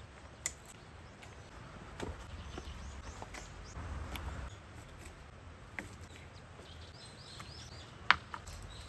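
Scattered knocks and taps of hand work in the woods, with a sharp knock about eight seconds in. A bird chirps a few times about seven seconds in.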